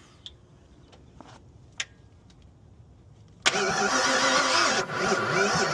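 A Fox-body Mustang's V8 being cranked by its starter without firing: a no-start. A quiet stretch with a few small clicks, then cranking starts abruptly about three and a half seconds in.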